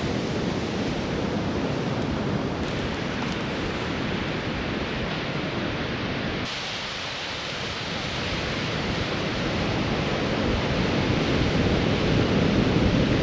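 Ocean surf washing on a sandy beach, a steady rush of noise that eases about seven seconds in and swells again toward the end.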